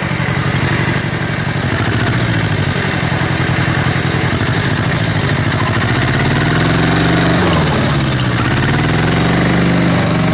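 Kubota L1500 18-horsepower diesel tractor engine running in first gear while the loader scoops dirt. In the second half its pitch sags and recovers twice, as the engine takes load.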